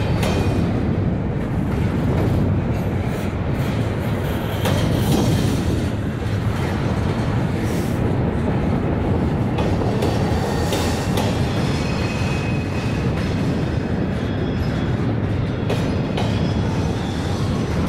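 Double-stack intermodal well cars rolling past: a steady rumble of steel wheels on rail, with clicks as the wheels cross rail joints and a faint wheel squeal about ten seconds in.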